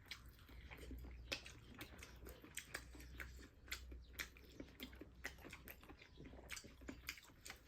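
Faint chewing of food, with irregular small clicks and smacks of the mouth, a few each second.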